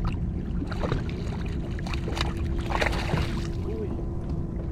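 Water sloshing and splashing around a kayak, with a steady low rumble of wind on the microphone and brief splashy bursts about two and three seconds in.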